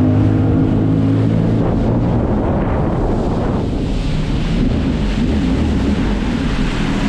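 Jet ski engine running, with wind on the microphone and a rush of water. The steady engine tone fades about a second and a half in, and the noise of wind and water takes over.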